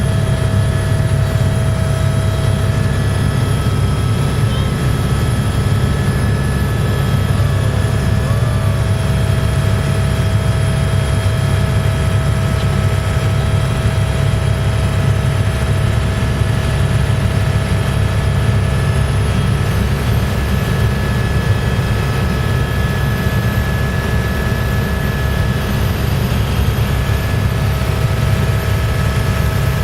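Helicopter cabin noise heard during flight: a steady, loud, low drone of rotor and engine, with a few constant higher whining tones over it.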